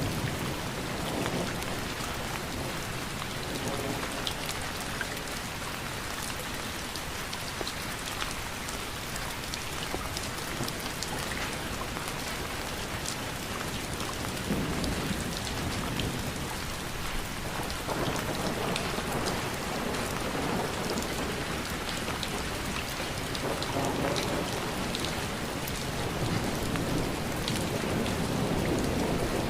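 Steady rain falling, an even hiss dotted with the sharp ticks of individual drops striking a surface. Low rumbles swell up at times in the second half.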